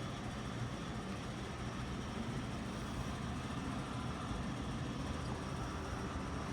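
Steady road and engine noise of a vehicle driving, an even rumble with no sudden events.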